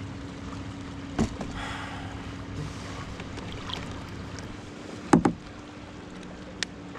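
Knocks of gear and fish being handled in a plastic kayak, with a loud double knock about five seconds in, over a steady low hum.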